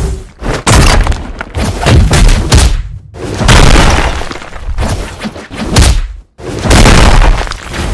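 Extremely loud, heavily distorted booming noise in five or so bursts of about a second each, cutting in and out with short gaps.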